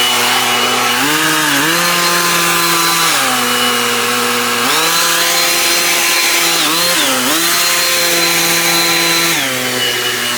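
Two-stroke chainsaw running at high revs, its pitch stepping up and down several times, with short dips as the throttle or the cutting load changes.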